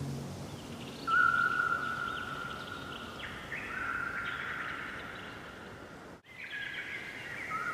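Songbirds singing, with long, clear whistled notes and quick chirps that start about a second in. The sound cuts out briefly near the end.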